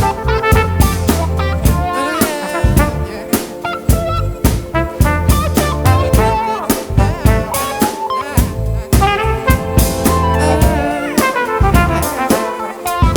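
Live band playing a jazzy instrumental intro: a drum kit keeps a steady beat under bass and a brass melody from a flugelhorn.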